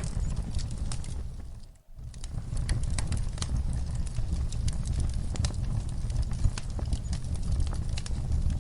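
Wood fire in a fireplace crackling, with irregular sharp pops over a low steady rumble of the flames. The sound fades out briefly just under two seconds in and comes back.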